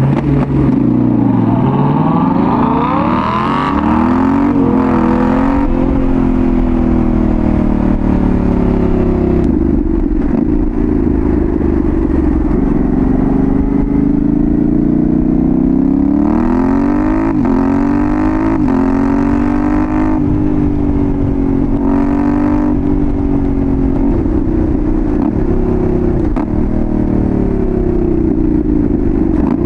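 Yamaha Tenere 700's 689 cc parallel-twin engine through a Dominator GP1 full exhaust, heard from on the bike while riding. The revs rise and fall through the gears, with hard pulls about three seconds in and again between about sixteen and twenty-two seconds in.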